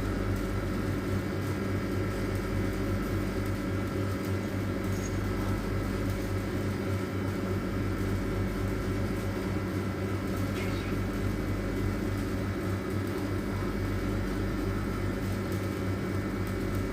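A steady low hum, unchanged throughout, with no sharp sounds.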